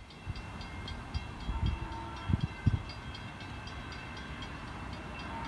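A train approaching on the rail line: a steady rumble with irregular low thumps.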